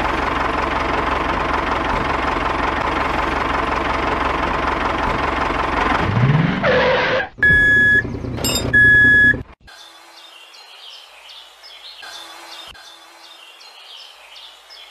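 Toy tractor engine sound effect running steadily, rising briefly at about six seconds, followed by two electronic reversing beeps as the tractor backs up to its trailer. The engine sound then cuts off, leaving a quiet outdoor background with faint chirps.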